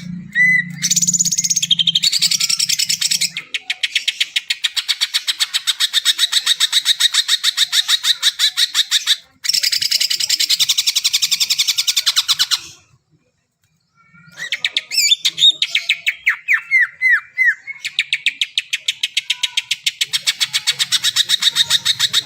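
Cucak ijo (greater green leafbird) singing in long, rapid chattering runs of many quick notes. There is a short break about two-thirds of the way through, followed by a few slurred whistled notes before the rapid chatter resumes.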